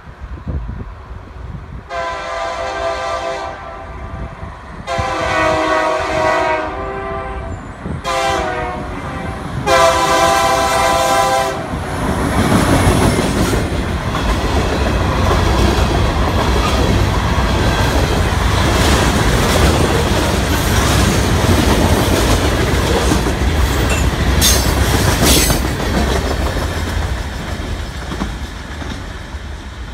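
Freight train's diesel locomotive sounding its horn in the grade-crossing pattern, long, long, short, long: the signal given on approaching a road crossing. The train then passes close with its engine running and its wheels rumbling on the rails, with two brief high squeals a little before the end.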